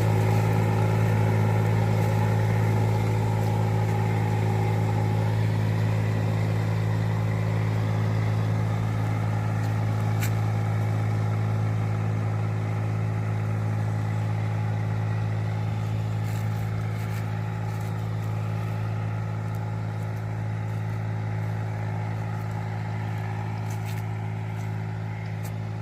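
An engine running steadily at a constant speed, slowly getting quieter.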